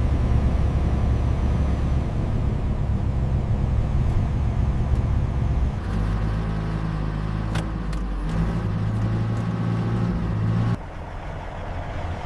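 Peterbilt truck's diesel engine running with a deep, steady drone. Its pitch and loudness shift abruptly about six, eight and eleven seconds in, and a few faint clicks sound near the middle.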